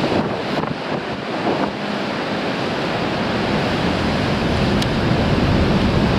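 Sea waves crashing and surging on a rocky shore, with strong wind buffeting the microphone. The low rumble of the surf grows heavier about halfway through.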